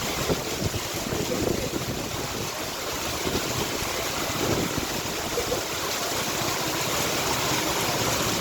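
Rain falling steadily, a constant rushing hiss of water.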